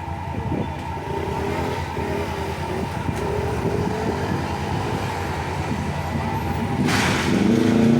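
Road traffic: vehicle engines pulling away and passing close, getting louder toward the end, with a short hiss about seven seconds in.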